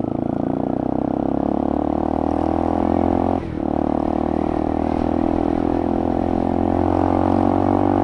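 Motorcycle engine and exhaust running steadily under way, with a brief break in the engine note about three and a half seconds in. The exhaust is one the rider finds too noisy, even with a baffle fitted.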